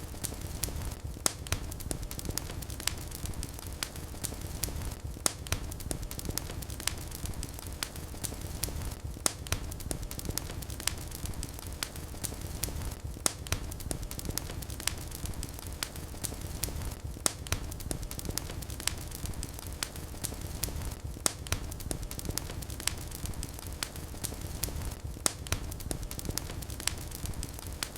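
Fire in a fireplace burning with a steady low rumble and frequent sharp crackles and pops. The same pattern of pops comes round again about every four seconds.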